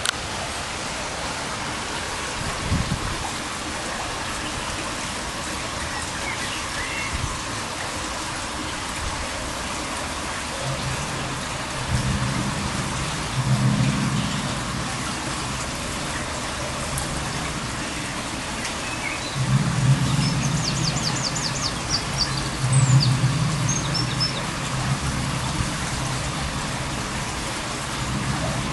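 Low, steady droning hum that swells twice, about eleven seconds in and again from about twenty seconds, over a constant hiss. The uploader takes it for a mysterious sound coming from underground. A few faint bird chirps sound high above it.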